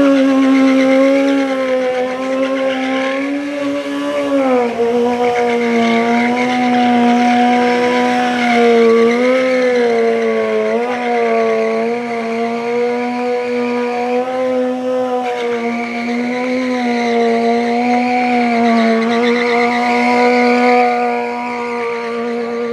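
Motorcycle engine held at high, nearly constant revs, dropping a little in pitch about four seconds in and then wavering slightly up and down.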